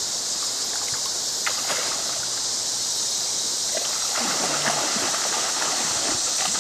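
Creek water running steadily over rocks, a constant rushing hiss.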